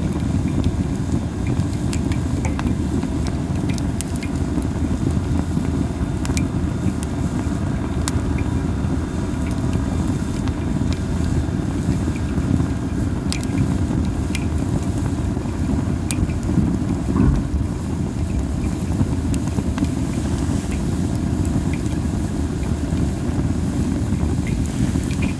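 Masaki (Japanese spindle) wood fire burning, crackling with scattered sharp pops over a steady low rumble, with a faint hiss in places.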